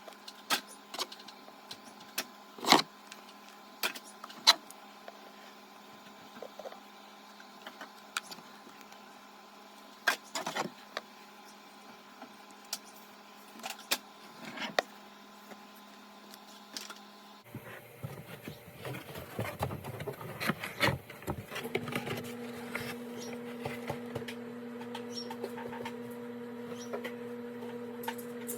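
Scattered clicks and knocks of small household objects being handled and set down. About two-thirds of the way through, a steady low hum sets in under them.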